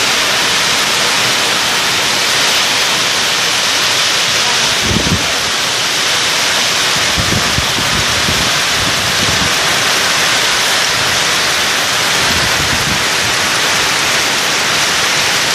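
Heavy rain falling, a steady dense hiss, with a few brief low bumps about five seconds in and again around seven to nine seconds in.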